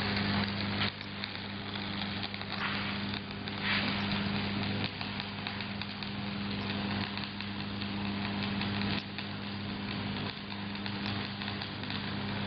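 Stick (shielded metal arc) welding: the electrode's arc burning steadily with a continuous crackling hiss, over a low steady hum from the welding machine. There are a few brief dips where the arc falters.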